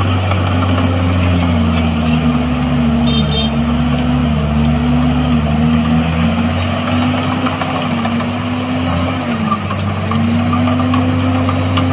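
Heavy earthmoving machine's diesel engine running steadily, its pitch wavering slightly, with a brief dip about nine seconds in.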